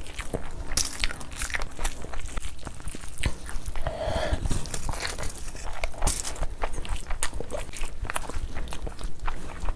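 Close-miked wet chewing and mouth smacking of a mouthful of rice and curry, mixed with squelching of a bare hand kneading rice and gravy on a foil tray. The clicks and smacks come irregularly, several a second.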